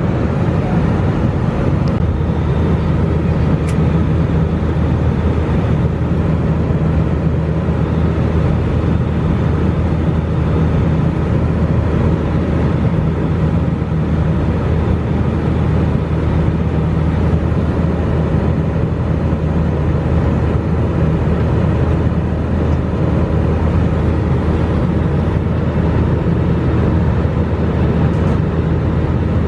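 Airbus A320 cabin noise: the steady low drone of the jet engines and rushing air heard from inside the passenger cabin, unchanging throughout.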